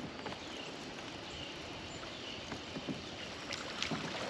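Water moving against a kayak hull, with a few light knocks and splashes toward the end.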